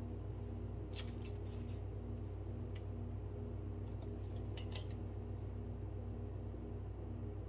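A steady low hum with a few light, sharp clicks and ticks about one, three and five seconds in.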